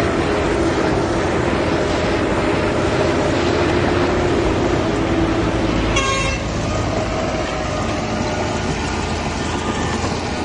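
Heavy diesel machinery running steadily, with a short high-pitched tone about six seconds in, after which the engine noise drops slightly.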